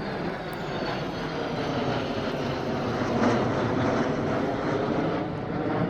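Military jet aircraft engine roar, growing steadily louder as the jet approaches.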